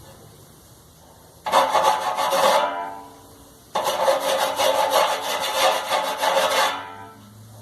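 Hand file rasping with quick strokes across a sharp sheet-metal edge of a clothes dryer part, blunting it so it no longer cuts. There are two bouts of filing with a pause of about a second between them, and the metal rings briefly as each bout stops.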